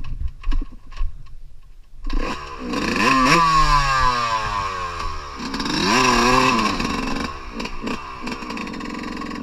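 A few light clicks and knocks, then a dirt bike engine starts about two seconds in. It is revved up twice and then runs steadily.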